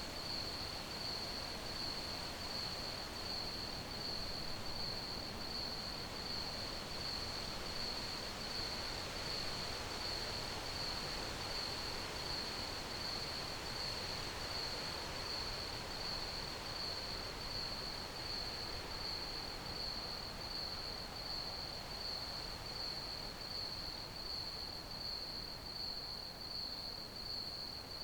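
Crickets chirping in a steady, unbroken trill pulsing at one high pitch, over a soft background hiss.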